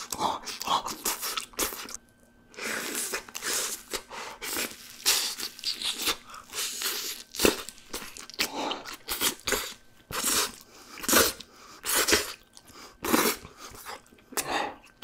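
A person biting and chewing crispy fried chicken coated in melted cheese: a dense, irregular run of sharp crunches, with a short pause about two seconds in.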